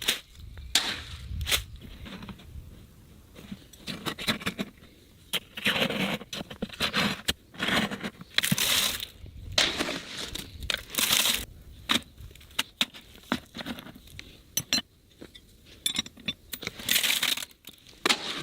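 Hand-tool construction work: irregular sharp knocks and clinks, with short rasping scrapes every second or two.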